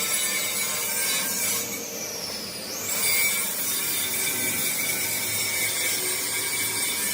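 Tire rubber being rasped: a steady scraping noise that dips briefly about two seconds in.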